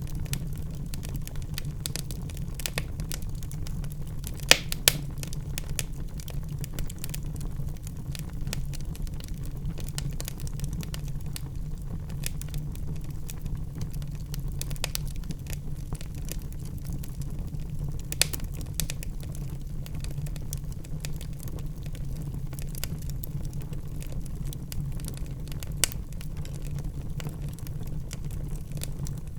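Log fire crackling in a fireplace: a steady low rumble of burning with constant small crackles and a few sharper pops, two close together about four and a half seconds in.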